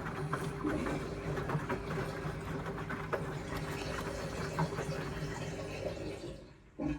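Indesit washing machine running an Express wash cycle: water rushing and sloshing in the drum over a steady hum from the machine, with scattered light clicks. The sound drops away briefly just before the end, then comes back.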